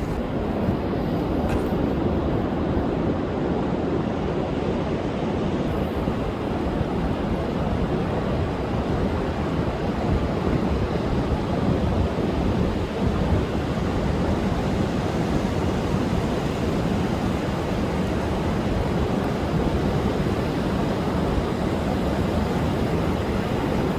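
Rough storm surf breaking continuously, with strong wind blowing over the microphone: a steady, heavy rumbling wash with no pauses.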